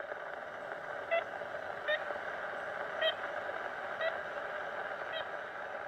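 Ivory-billed woodpecker giving five short tooting 'kent' calls about a second apart, over the steady hiss of an old field recording.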